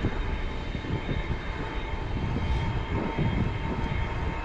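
Wind buffeting the microphone on a moving e-bike: a steady, uneven low rumble with faint road noise behind it.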